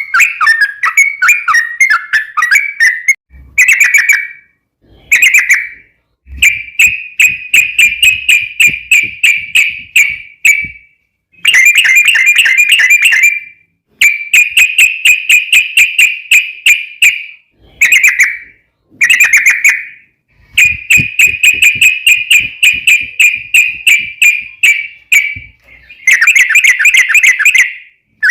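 Yellow-vented bulbul (trucukan) song: repeated bursts of rapid, bubbly chattering trills, each lasting one to three seconds, with short pauses between them. It is a long rolling trill, the kind played as a lure to make other bulbuls answer.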